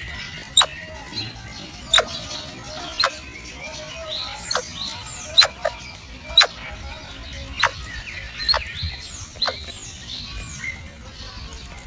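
A bird calling with short, sharp chirps that sweep steeply down in pitch, about one a second, with fainter chirps of other birds behind.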